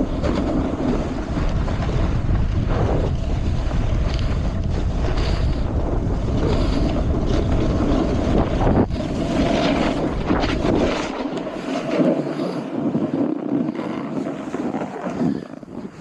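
Wind rushing over a GoPro microphone during a snowboard descent, mixed with the board sliding and scraping on snow. A heavy low rumble drops away about two-thirds through, and the sound falls off sharply right at the end.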